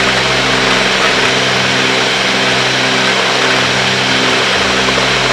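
Twin piston engines and propellers of a Cessna 310 in flight, a steady drone heard in the cockpit with a slow pulsing in some of its tones.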